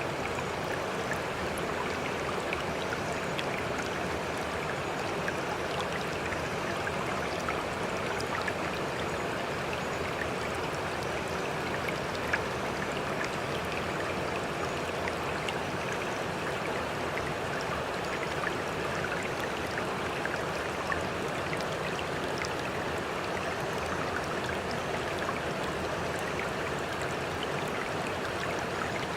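Steady running water with small scattered splashes and drips, even and unbroken throughout.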